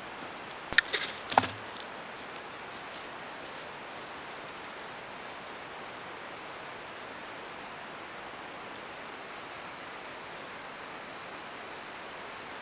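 Steady hiss with no other distinct sound, broken by a few sharp clicks and ticks in the first second and a half.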